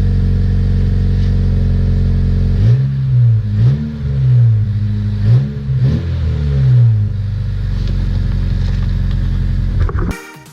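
2017 Honda Civic's turbocharged 1.5-litre four-cylinder, breathing through a catless RV6 downpipe with no muffler, idling steadily, then blipped four times in quick succession a few seconds in, each rev rising and falling in pitch, before settling back to idle. The sound cuts off suddenly near the end.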